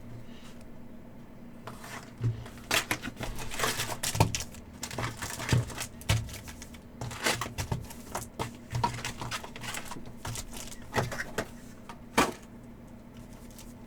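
Trading card packs being opened and handled: wrappers crinkling and tearing, and cards rustling and clicking against each other in quick irregular bursts.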